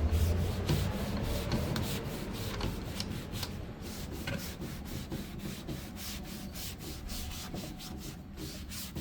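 Quick, rhythmic back-and-forth rubbing strokes on a wooden surface, about three or four a second, as in hand sanding. A low hum fades out over the first couple of seconds.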